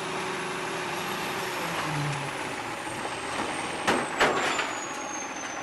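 Garbage truck sound: a steady hiss with a thin high whistle slowly falling in pitch, and a couple of sharp clicks about four seconds in.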